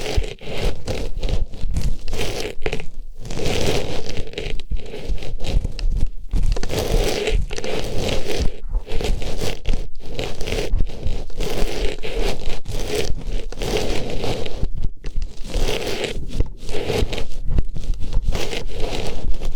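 Artificial rose pushed into and rubbed around the ear of an ASMR microphone: continuous scratchy rustling and scraping in uneven strokes, with brief pauses between them.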